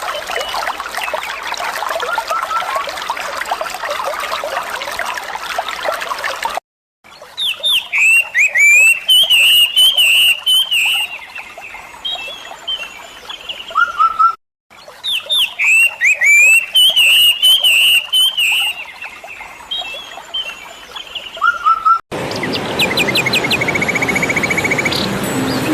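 Songbirds singing: clear, warbling phrases of whistled notes that glide up and down. The same birdsong passage plays twice in a row, between short clips in which faint chirps and trills sit over a steady hiss like running water.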